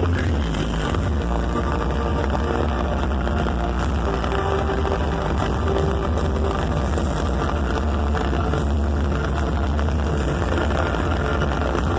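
Loud music played through a large street sound system, with a heavy bass that never lets up.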